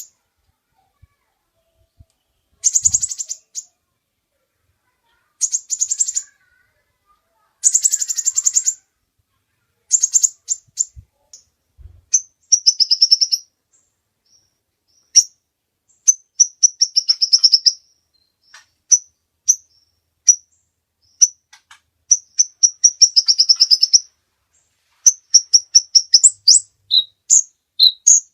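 Kolibri ninja sunbird singing: high-pitched phrases of rapid trilled chattering, each about a second long, then from about halfway a fast run of short sharp notes and quick trills.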